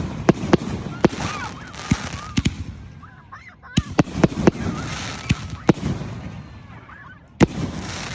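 Consumer fireworks going off: a string of sharp bangs and crackles with a short lull about three seconds in and heavier bangs just after it and near the end, mixed with high wavering squeals.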